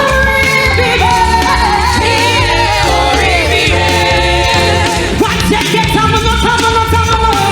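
Gospel choir singing with a live band, held sung notes over a steady bass beat.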